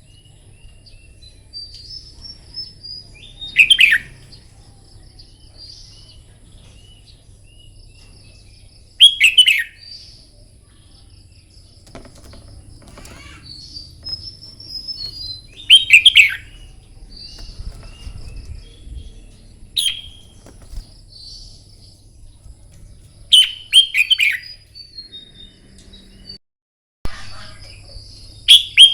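Red-whiskered bulbuls singing: six loud, short, falling song phrases come every four to seven seconds, with softer twittering calls between them.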